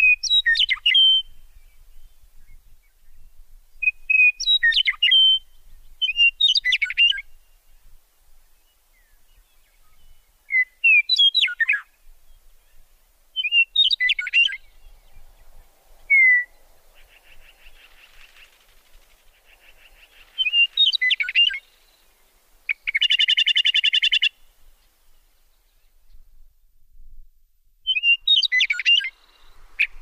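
Small birds chirping: short, sharp chirp phrases repeated every two to three seconds, with one short buzzy rattling call about three quarters of the way through.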